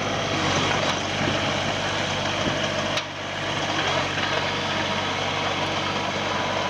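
Kubota RX-306 mini excavator's diesel engine idling steadily, with a short click and a brief drop in level about three seconds in.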